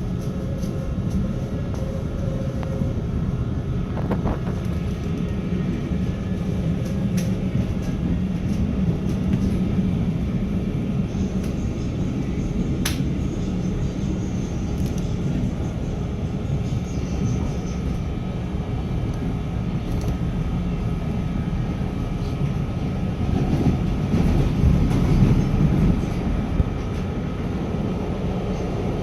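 Steady low vehicle rumble with a few faint clicks, slightly louder near the end.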